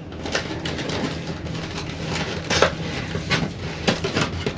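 Breakfast items and their wrapping being handled on a tray, giving a string of short clicks, knocks and rustles over the steady low rumble of a moving sleeper train.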